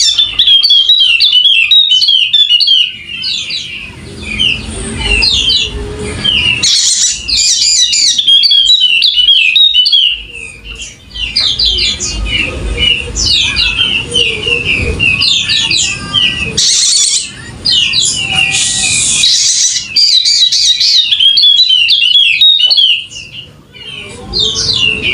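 Yellow-spectacled (Wallacean) white-eye singing a fast, almost unbroken chattering song of high chirping and twittering notes, with only short breaks.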